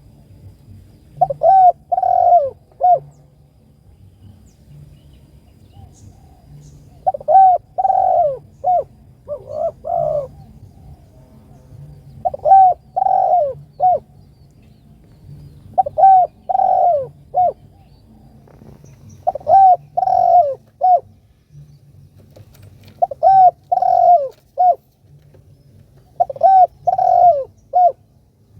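Spotted dove (tekukur) cooing: about eight short phrases of three or four falling coo notes, repeating every few seconds over a faint low hum. It is the advertising call used to lure other doves.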